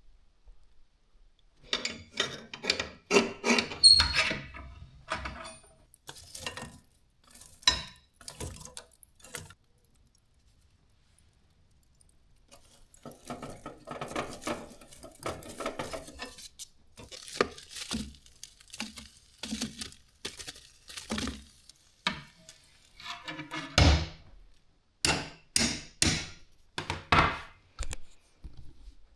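Irregular knocks and clatters of cookware being handled, in two busy spells with a short lull between them and one heavier thump about three quarters of the way through.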